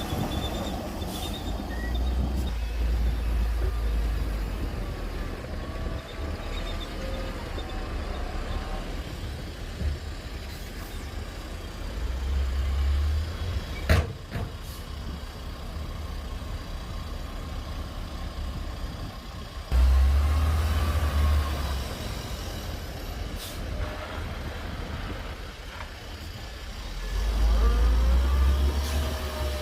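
Heavy diesel construction machinery, bulldozer and dump truck, working with a low engine rumble that rises and falls under load. There is a single sharp knock about halfway through, and the engine suddenly gets louder about two-thirds of the way through.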